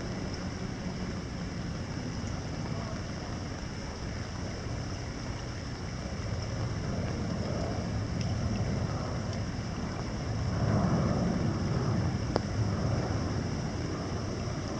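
Light summer rain falling into canal water over a steady distant city hum, with scattered faint drop ticks. Near the end a low rumble swells and eases, with one sharp click.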